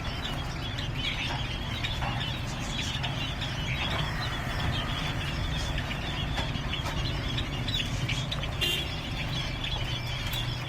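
Many small cage birds chirping busily, with a brief louder call about nine seconds in, over a steady low rumble.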